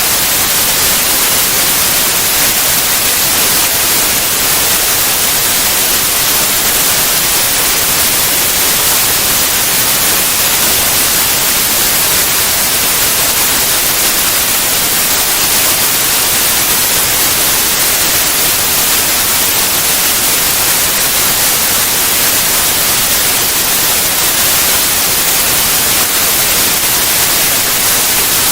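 Steady white noise: an even, unchanging hiss across all pitches, brighter toward the top.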